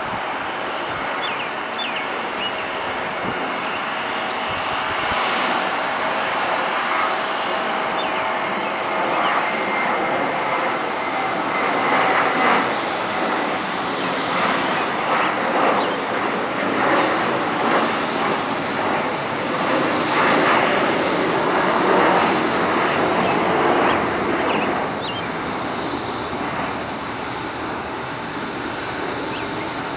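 Jet airliner passing at close range: a broad engine rush that swells, is loudest for about ten seconds in the middle, then fades away.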